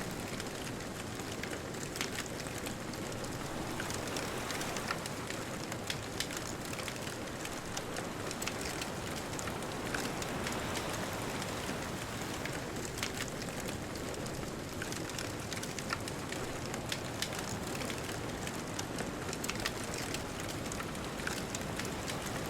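Bonfire crackling with irregular sharp pops and snaps, over a steady rushing hiss of ocean waves.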